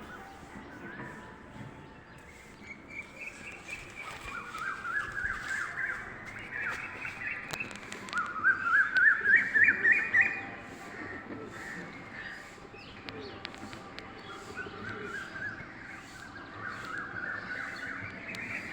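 A bird calling in runs of quick repeated notes that climb in pitch, three or four times, the loudest run about halfway through.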